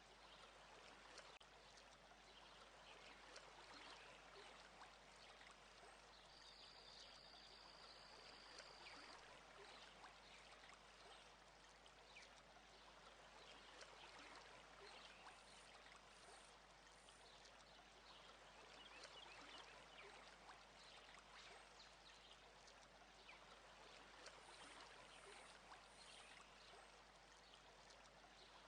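Near silence: a faint, even trickle of meltwater or runoff with fine dripping ticks. A brief high steady tone sounds for a few seconds early on.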